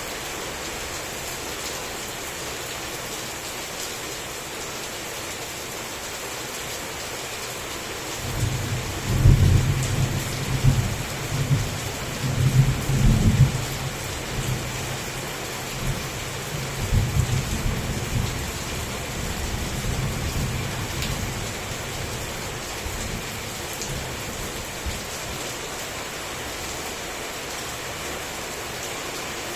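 Heavy rain falling steadily, with a long roll of thunder beginning about eight seconds in. The thunder is loudest over the next five seconds, then rumbles on more faintly in a few swells before fading out.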